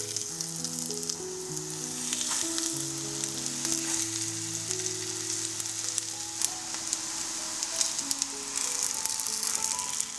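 Food frying in hot oil in a pan: a steady sizzle with fine crackles and pops.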